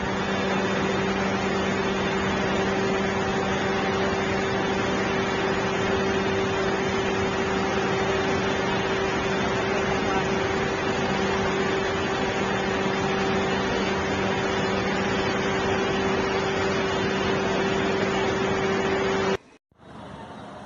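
Steady machine hum with a rushing noise, constant in pitch, that cuts off abruptly about nineteen seconds in, where a quieter clip begins.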